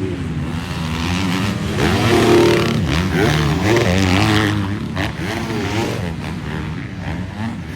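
Several 450-class motocross bikes racing on a supercross track, their engines revving up and down as they go over jumps and through turns, loudest a couple of seconds in.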